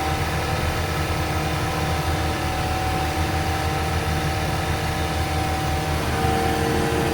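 Venieri 10.33C backhoe loader's four-cylinder Deutz diesel running steadily at full RPM, driving a snowblower attachment as it clears snow. About six seconds in, a new steady tone joins the engine note.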